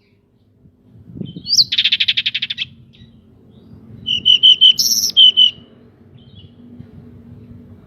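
Pied bushchat (decu) singing two phrases: a fast buzzy rattle about a second and a half in, then a string of short repeated notes and rising whistles around four to five seconds in. A faint steady low hum lies underneath.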